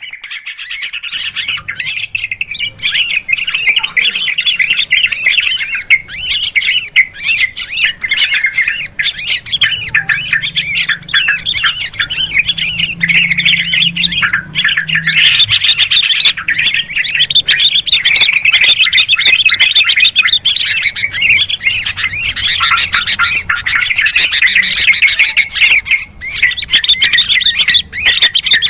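Yellow-vented bulbuls and sooty-headed bulbuls calling noisily: a dense, unbroken run of quick chattering calls, many each second, as in a bird-lure recording.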